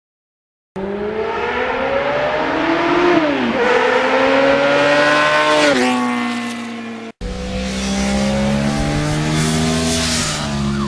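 A motor vehicle engine accelerating hard, its pitch climbing and then dropping sharply twice as it shifts up through the gears. After an abrupt cut, an engine runs at a steadier pitch.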